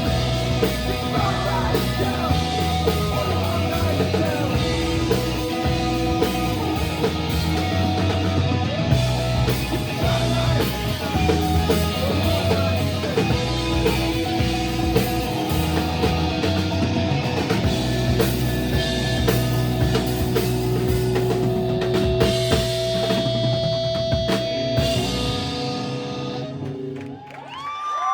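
Live rock band playing an instrumental passage on electric guitar, bass and drum kit. About 25 seconds in, the drums and bass stop and a held note fades away as the song ends.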